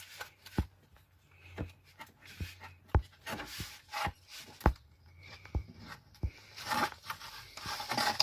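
Parts being handled by hand after removing a fuel pump: scattered light knocks and clicks, with rubbing and rustling near the middle and toward the end.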